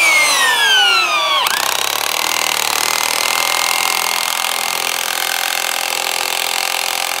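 Power drill motor running under load: its whine falls in pitch over the first second and a half, then it runs on steadily with a rougher, noisier sound.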